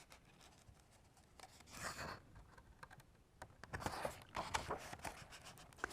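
Faint rustling and small clicks of paper as the pages of a picture book are handled and turned, with a soft swell about two seconds in and a cluster of light clicks later on.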